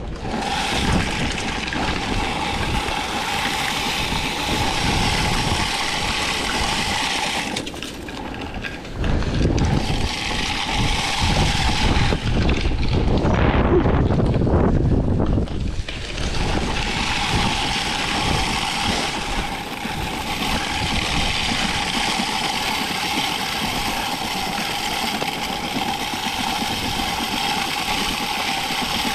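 Push salt spreader being pushed across a lot: a steady hiss and rattle of rock salt flung from the spinner with a steady whine, stopping briefly twice. Strong wind buffets the microphone around the middle.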